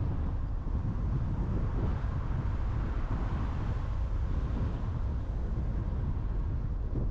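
Steady road and wind noise from a car driving at speed, mostly a low rumble with a softer hiss above it.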